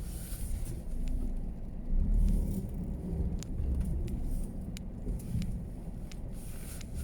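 Car driving along a snow-covered road: a low, uneven road rumble with a surge about two seconds in and scattered light clicks.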